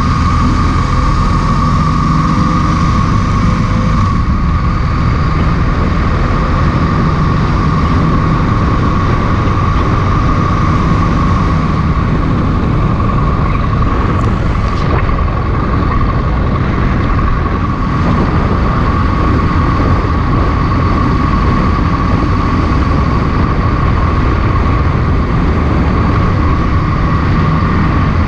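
A motorcycle riding steadily at road speed: engine rumble and heavy wind noise on the microphone, with a steady high-pitched whine over it.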